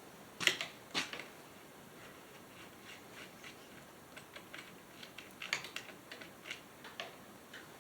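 Light clicks and taps of hands working on an old chainsaw and its parts: two sharper clicks near the start, then scattered small ticks and knocks.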